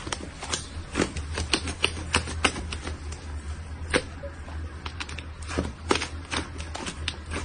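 Slime being squeezed and pressed by hand, making irregular sharp clicks and pops, several a second, over a faint low hum.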